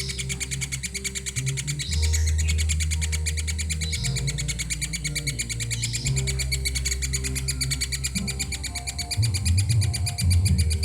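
Young woodpecker calling in a continuous, very rapid buzzing chatter of fine repeated ticks. Steady low tones underneath shift every couple of seconds.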